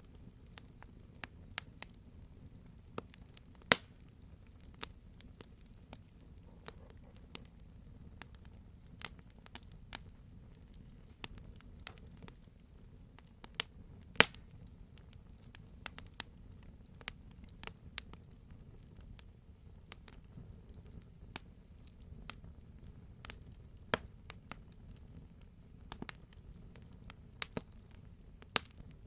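Campfire crackling: irregular sharp pops and snaps from burning wood over a low steady rumble, with the loudest pops about 4 and 14 seconds in.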